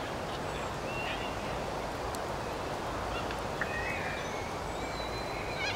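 Birds calling: a few short, high gliding and held calls over steady outdoor background noise.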